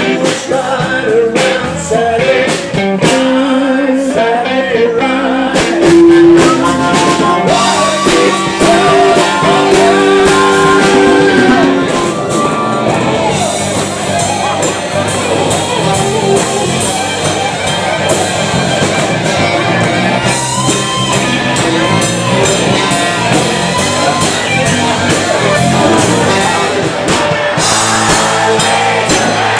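Live rock band playing a blues-rock song, with singing over guitar and drums.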